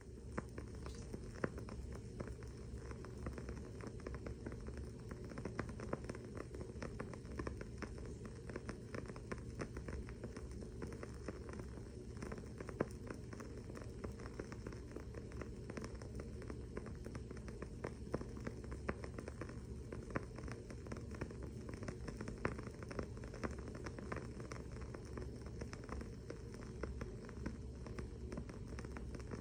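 Wooden-wick candle crackling: a steady stream of small, irregular pops and ticks over a low, steady hum.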